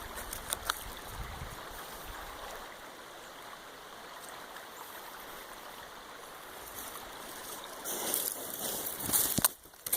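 Floodwater rushing steadily down a swollen creek, with a louder stretch of noise near the end.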